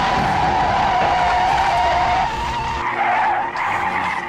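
Airliner skidding along the runway: a long, steady tyre screech over a low rumble.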